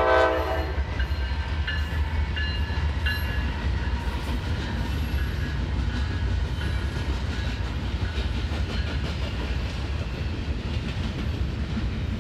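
Norfolk Southern intermodal freight train passing: its air horn chord ends within the first second, then the steady rumble and clatter of rolling cars continue, with short high wheel squeals now and then.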